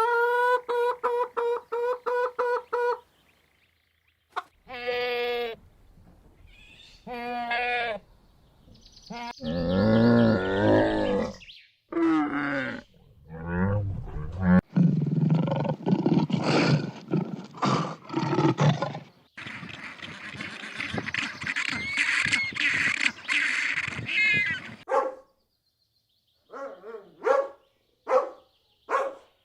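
A sequence of different animal calls, one clip after another. It opens with a rapid run of repeated pitched calls, has a loud, low roar about ten seconds in, and continues with a long stretch of harsher, noisier calls and a few short calls near the end.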